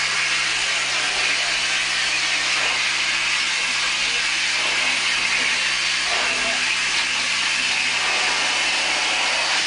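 Steam hissing steadily in the cab of a live steam locomotive, an even, unbroken rush with no rhythm.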